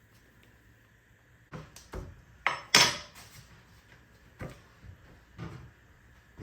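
Kitchen clatter from dishes and utensils being handled and set down: a quick run of knocks and clanks, the loudest a sharp clank a little under three seconds in, followed by a few lighter knocks.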